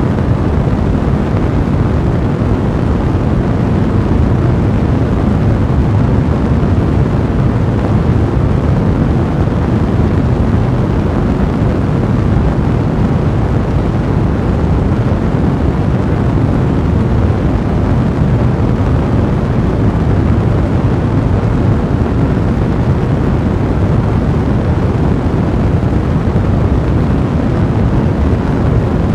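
A large blazing fire, a steady low roaring rumble with no distinct pattern.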